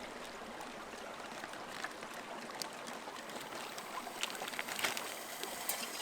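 Steady rush of a stream flowing over rapids, with scattered light clicks and crackles, more of them near the end.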